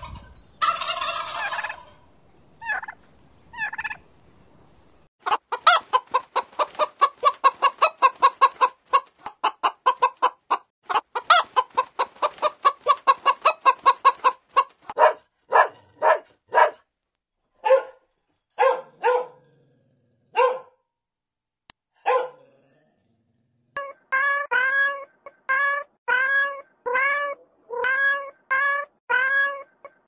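Turkeys gobbling and fowl clucking, with a dense run of short rapid calls through the first half, then a few separate calls. Near the end, a cat meows over and over, about twice a second.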